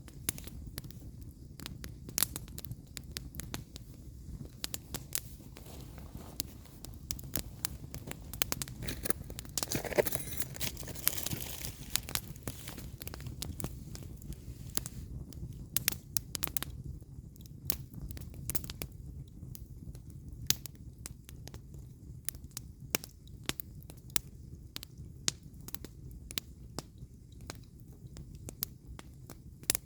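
Burning firewood crackling, with frequent sharp pops and snaps over a low steady rumble. About ten seconds in, a hissing rush swells for a couple of seconds.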